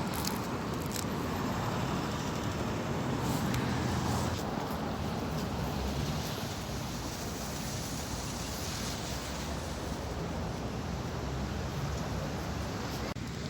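Steady outdoor rumble and hiss with no firecracker bang.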